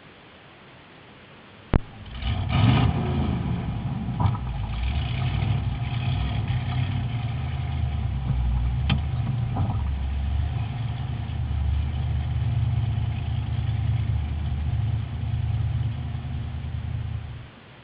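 Drag-racing truck's engine starting up about two seconds in, then running with a few short revs before it stops suddenly near the end.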